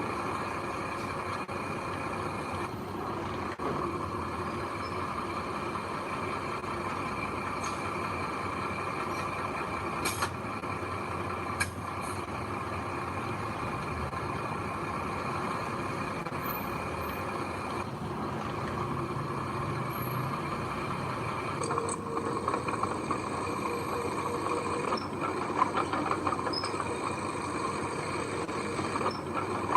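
Heavy diesel machinery running steadily, with a few sharp clicks partway through and a change in its tone about two-thirds of the way in.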